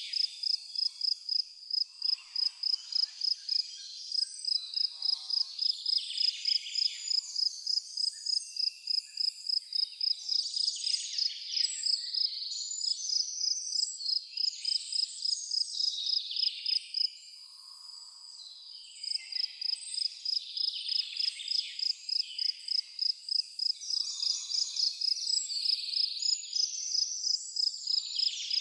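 A cricket chirping in a fast, regular rhythm of several high chirps a second, falling silent for a couple of seconds about two-thirds of the way through, while songbirds sing over it.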